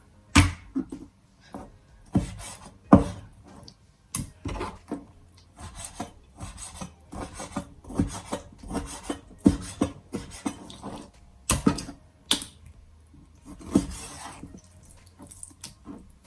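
Kitchen knife cutting up a raw chicken on a cutting board: irregular sharp knocks of the blade hitting the board, with rubbing and scraping of the knife through meat and bone between them.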